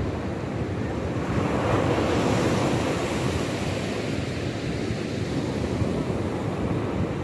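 Sea waves breaking and washing on the shore, one wave surging louder about two seconds in. Wind rumbles on the microphone throughout.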